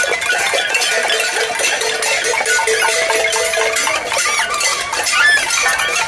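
A crowd rattling and banging pots and pans: a dense, continuous metallic clatter, with a few held tones rising above it for a while.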